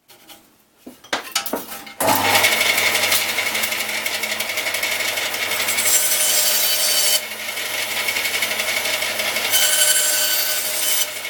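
A few small knocks of wood being handled, then a power saw starts about two seconds in and runs steadily while cutting thin wooden strips. There are two harsher stretches of cutting near the middle and near the end.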